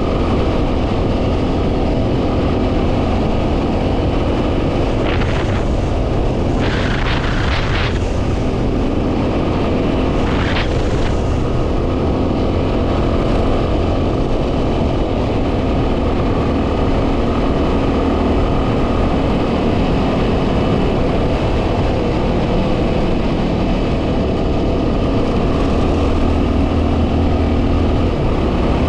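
Yamaha WR250R's single-cylinder 250 cc engine running steadily on the move, under heavy wind noise on the microphone. A few brief hissing bursts come through about five to eleven seconds in.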